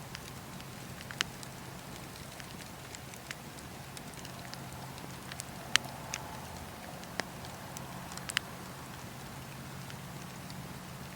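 Campfire crackling: sharp wood pops at irregular intervals, the loudest a little past halfway, over a steady low hum.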